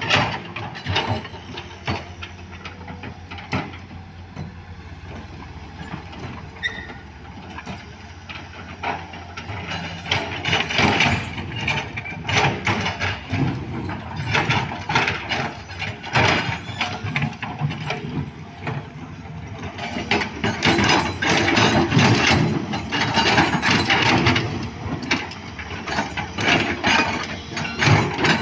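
Heavy earthmoving machinery at work: a diesel engine running under dense, rapid metallic clanking and rattling, which grows busier and louder about a third of the way in and again later.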